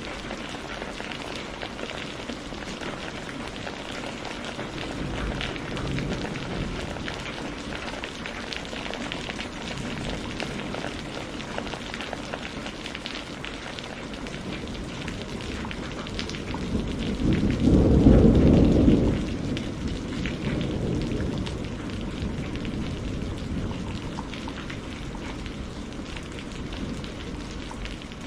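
Steady heavy rain pattering, with a deep roll of thunder that swells about halfway through and fades away over a few seconds; a fainter low rumble comes earlier.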